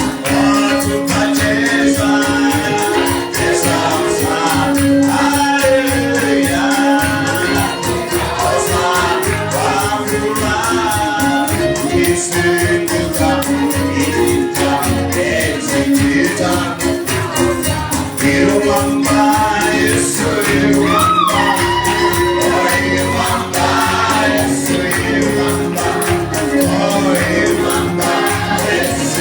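Live gospel praise-and-worship singing by a group of voices, with a fast, steady percussive beat.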